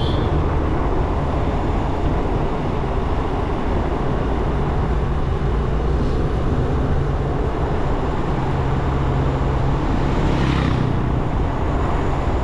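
Motorcycle engine running steadily on the move, under wind and road noise; its note steps up and down slightly a few times. A short higher whoosh passes about ten seconds in.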